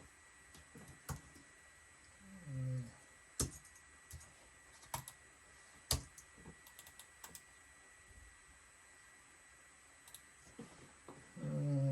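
Scattered single clicks and key taps at a computer: mouse clicks and keyboard presses, a few seconds apart, while working in music software.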